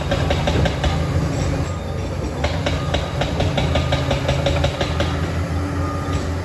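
Liebherr 746 crawler dozer working: the diesel engine runs steadily under a rapid, even clatter of its steel tracks, about five clicks a second.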